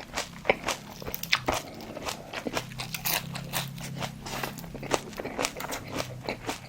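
Close-miked chewing of crunchy fried food, with dense, irregular crackling crunches several times a second.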